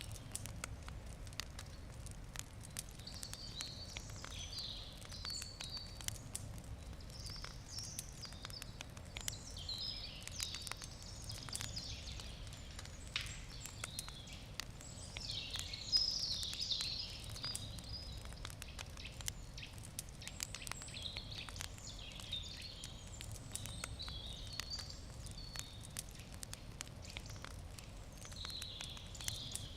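Wood campfire crackling with frequent small pops, a sharper pop about halfway through, while birds chirp and sing.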